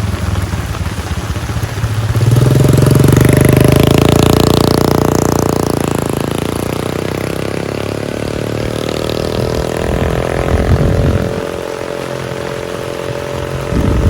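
A motor vehicle's engine passing close in the rain, swelling about two seconds in and then slowly fading.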